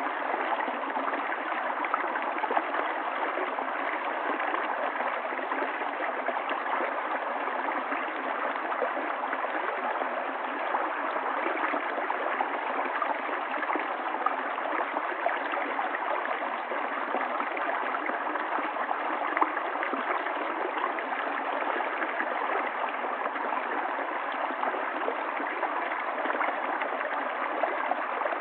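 A stream of running water flowing steadily, an even rush with many small brief splashes throughout.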